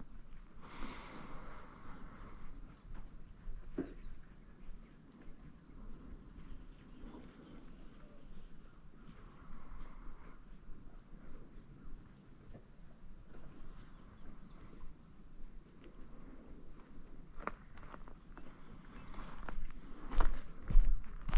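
Steady high-pitched chirring of crickets or similar insects, with a few faint knocks and louder footsteps near the end.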